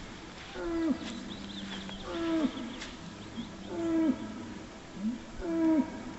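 Highland bulls giving a run of short, Wookiee-like calls. There are about five of them, roughly one every second or so, and each is held briefly on one pitch and then drops at the end.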